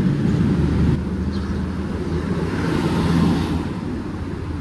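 Street traffic: a motor vehicle's engine running close by, growing to its loudest about three seconds in and then fading.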